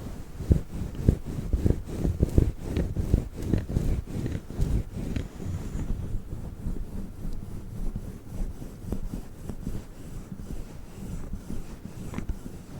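Rubbing and brushing on a fluffy microphone cover, a fast run of soft, muffled strokes that thin out and grow softer about halfway through.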